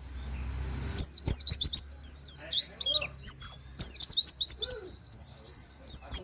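Pleci (white-eye) singing in a fast 'nembak' run of sharp, high chirps that sweep up and down, mixed with canary-like 'wit wit' notes, starting about a second in. A soft hiss fills the first second.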